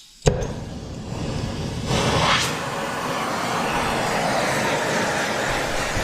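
Gas torch lit with a sharp pop about a quarter second in, then its flame rushing steadily, swelling louder around two seconds in as it is turned up to heat an aluminum part.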